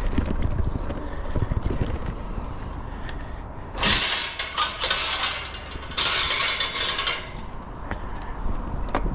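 Bicycle riding along a gravel track: a low rumble and rattle from the tyres and frame. About four seconds in and again about six seconds in come two louder stretches of crunching hiss, each lasting about a second.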